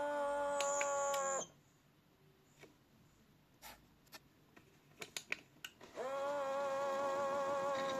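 Miele W1 toy washing machine's small electric drum motor humming steadily, cutting off about a second and a half in. A few light clicks follow during the pause, then the motor starts again near six seconds as the drum turns once more.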